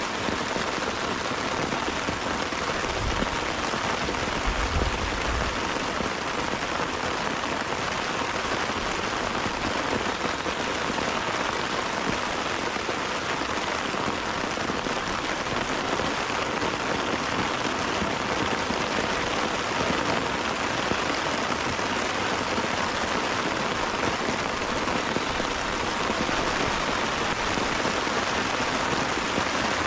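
Heavy rain pouring steadily, a dense even hiss of drops. Two brief low bumps come about three and five seconds in.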